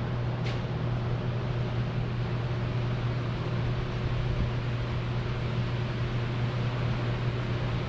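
A steady mechanical drone: an even low hum under a wide hiss, with a single brief tick about half a second in.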